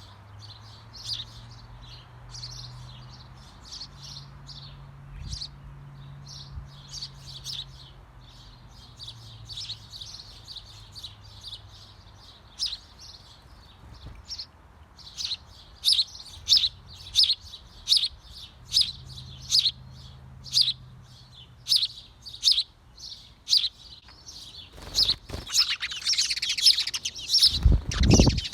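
Small birds in a birdhouse giving short, high chirps over and over, about one or two a second, growing louder and more frequent in the second half. Near the end comes a dense burst of chirping with a few low thumps.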